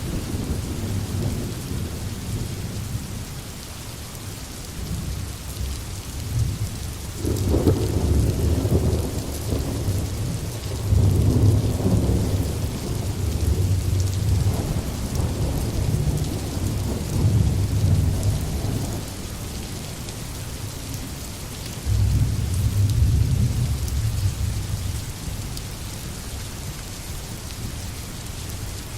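Steady rain hiss with rolling thunder: a long low rumble starts about seven seconds in and swells several times, then a shorter roll comes a little after twenty seconds in.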